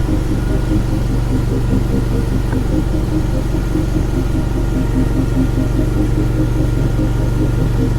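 Derette DRT450 mini skid steer's engine running steadily at an even speed.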